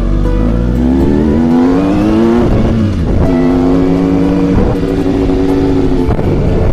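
Motorcycle engine under way and accelerating: its pitch climbs over the first couple of seconds, drops at a gear change about three seconds in, then runs fairly steady with brief dips at further shifts. Wind noise rumbles on the microphone.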